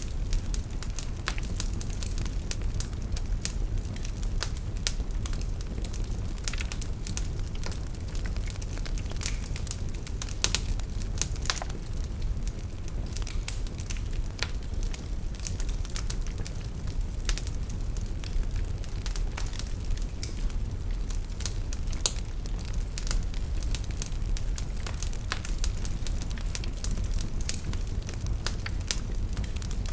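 Fire burning in a fireplace, crackling with many sharp pops over a steady low rumble.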